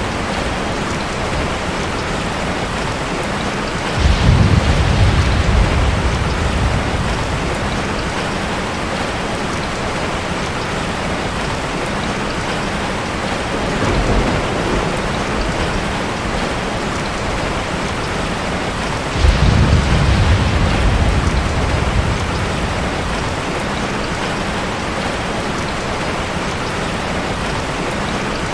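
Ocean surf: a steady wash of water with waves breaking in heavier, deeper swells about four seconds in and again near the middle, and a smaller one in between.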